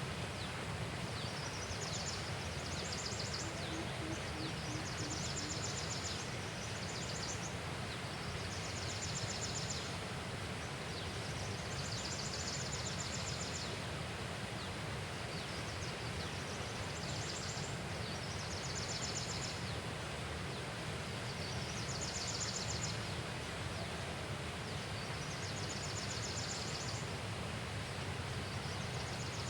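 A high, rapidly pulsed insect trill, each call about a second long and repeating roughly every two seconds, over a steady wash of outdoor noise.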